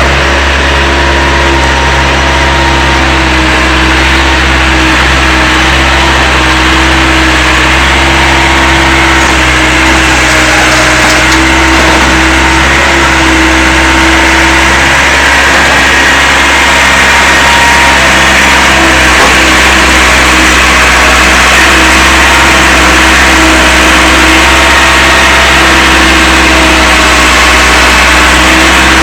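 Diesel engine of an old CASE backhoe loader running steadily as the machine works, with a few faint tones wavering up and down over the drone.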